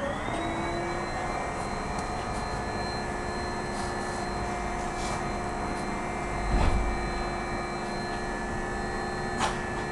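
Ilyushin Il-14's left Shvetsov ASh-82T radial piston engine running during a ground run-up. Its pitch rises briefly at the start and then holds steady. A low thump comes about six and a half seconds in.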